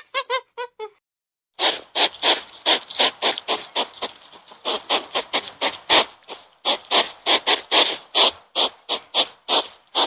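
Hedgehog snuffling as it forages, a rapid train of short, breathy sniffs at about four a second, briefly softer partway through.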